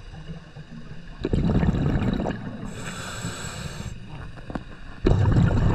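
Scuba diver breathing through a regulator underwater: a bubbling rush of exhaled air about a second in and again near the end, with a high hissing inhale between.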